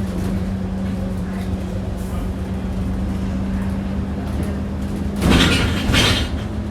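Alexander Dennis Enviro400 double-decker bus heard from on board: its engine drones steadily, with a low rumble and a steady tone that drops a little in pitch just at the start and then holds. About five and six seconds in come two short bursts of hiss.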